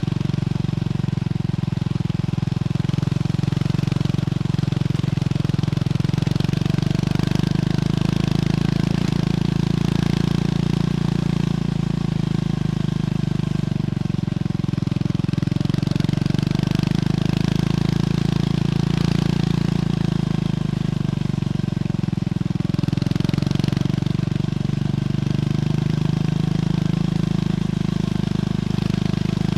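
Triumph Scrambler 400X's single-cylinder engine running through its stock exhaust, a steady note whose pitch dips and recovers slightly a few times.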